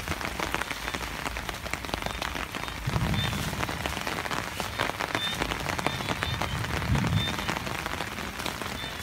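Steady rain pattering, a dense spread of small drop ticks, with two short low bumps, one about three seconds in and one about seven seconds in.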